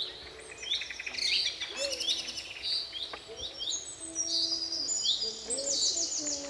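Several birds chirping and calling at once: short repeated rising chirps, with rapid trills, overlapping throughout.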